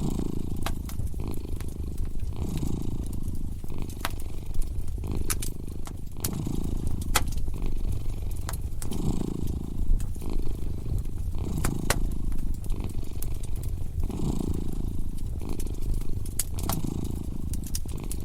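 A cat purring steadily, swelling and easing in a slow, even rhythm about every two seconds with each breath. Over it, a wood fire crackles with sharp, irregular pops.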